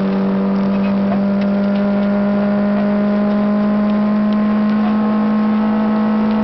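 Citroën AX GTi rally car's engine heard from inside the cabin, pulling hard in one gear. It makes a loud, steady note that climbs slightly in pitch.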